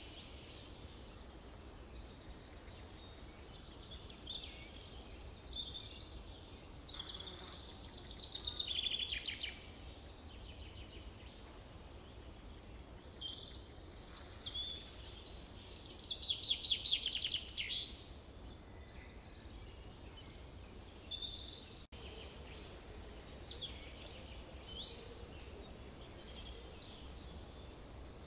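Several songbirds singing and chirping in a forest, with rapid trills loudest about eight seconds in and again around sixteen to eighteen seconds, over a steady low rumble.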